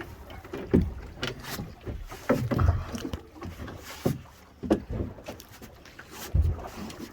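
Irregular knocks, clicks and low thumps on a small fishing boat while a fish is being played.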